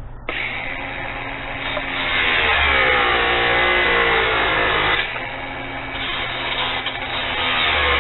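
Angle grinder cutting through the come-along's steel wire rope. Its whine starts just after the opening, grows louder and shifts in pitch as the disc bites, eases off about five seconds in, then bears down again.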